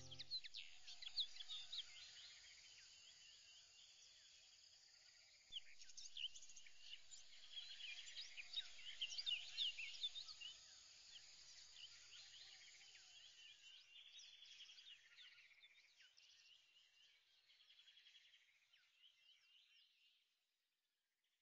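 Faint chorus of small birds chirping, many quick overlapping calls, swelling about five seconds in and fading out near the end.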